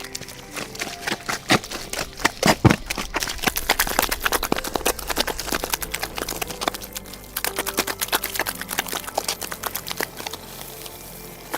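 A rapid, irregular series of knocks and clicks, the loudest a little under three seconds in, easing off near the end.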